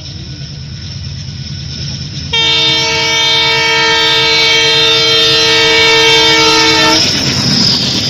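Train rumbling closer, growing louder, then its horn sounds about two seconds in: one long blast of several notes together, held for about four and a half seconds before it cuts off, leaving the rumble and clatter of the passing cars.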